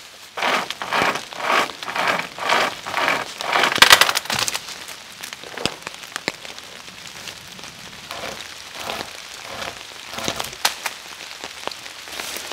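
Rain pattering, with a rhythmic noise of about two strokes a second for the first four seconds, the loudest just before it stops, then scattered sharp ticks over the rain.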